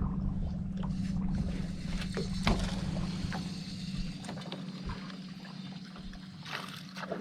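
Boat motor running with a steady hum, its low rumble fading about halfway through, with a few light knocks.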